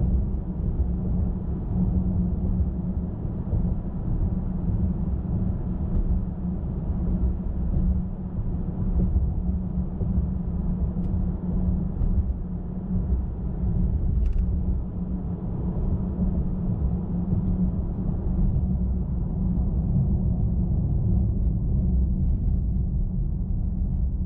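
A car travelling at highway speed: the steady low rumble of tyres on the road and the engine, with no change in pace.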